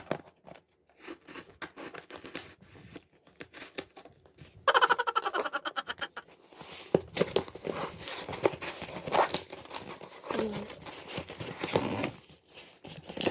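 A parcel being opened by hand: packaging rustling, crinkling and tearing, with a rasping rip about five seconds in and a busy stretch of crinkling after it.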